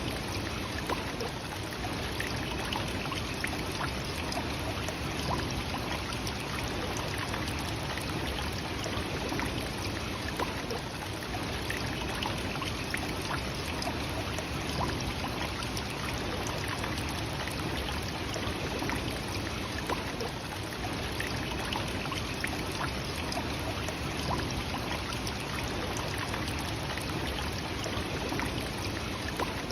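Nachi Falls, a waterfall about 133 m high, pouring down in a steady, unbroken rush of falling water.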